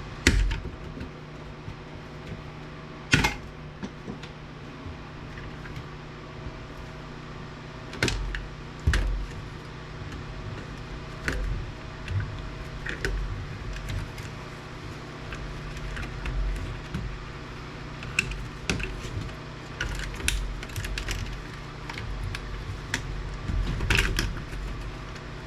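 Scattered clicks, clacks and knocks of small parts and tools being handled while an APC battery backup unit is stripped apart, over a steady low hum. The sharpest knocks come about three seconds and nine seconds in.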